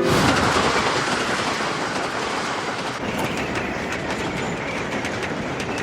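A train running along the track: a steady rushing noise that starts abruptly, with the wheels clacking over the rail joints from about halfway through.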